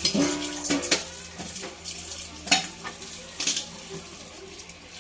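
Kitchen clatter: dishes and utensils knocking together in a sink, with several sharp knocks, the loudest about halfway through. A tap runs behind them.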